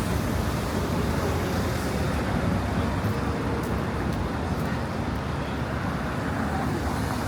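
Steady city street traffic noise: a constant low rumble with a hiss of passing vehicles.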